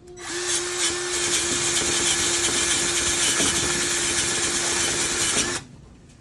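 Drill spinning a wire brush against the corroded old anode on a Suzuki DF140 outboard, scrubbing it to expose the bolt underneath. It runs at a steady speed for about five and a half seconds, then stops abruptly.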